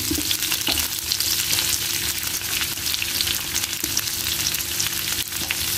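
Lemongrass stalks and minced garlic sizzling in oil in a nonstick wok, with light ticks of wooden chopsticks stirring them against the pan.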